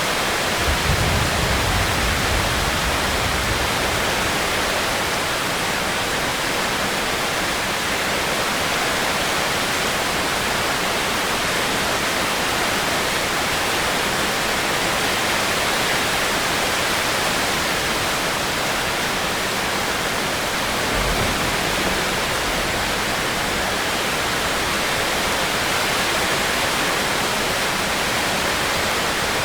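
Steady rainstorm downpour, a dense, even hiss, with a brief low rumble about a second in and another about twenty seconds in.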